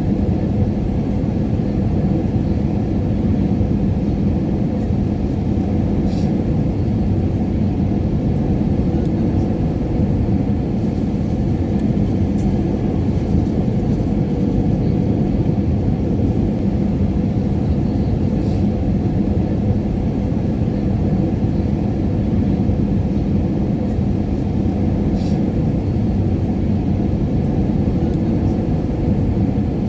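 Airliner cabin noise in flight: a steady low rumble with a faint hum in it, and three faint ticks spread across it.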